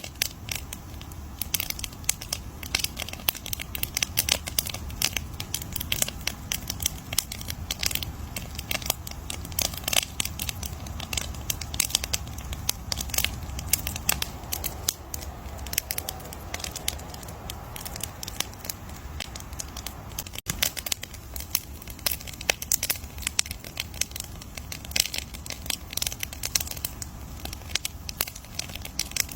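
Campfire crackling: many irregular sharp pops and snaps from burning wood over a low steady rumble of the flames.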